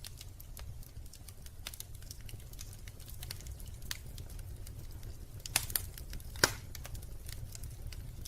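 Wood fire crackling in a fireplace: scattered sharp pops and snaps over a steady low rumble, with a few louder pops a little past the middle.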